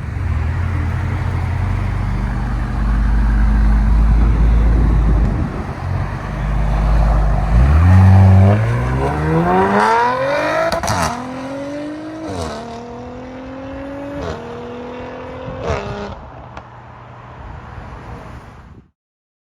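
2019 Audi RS5's 2.9-litre twin-turbo V6 through a custom exhaust with downpipes, rumbling deeply and then accelerating hard away. It shifts up through the gears with a sharp crack at each of four upshifts, growing fainter until it cuts off.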